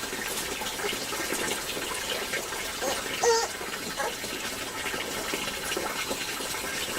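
Steady rush of running water, with a brief high chirp about three seconds in.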